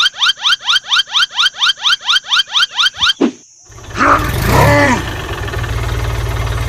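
A rapid run of electronic rising chirps, about six a second, like a car alarm's whoop, which stops after about three seconds. Then a steady, noisy rumble sets in and runs on.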